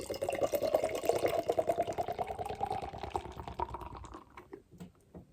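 Double IPA being poured into a glass, a steady gurgling pour whose pitch rises as the glass fills. It tails off about four seconds in with a few last drips.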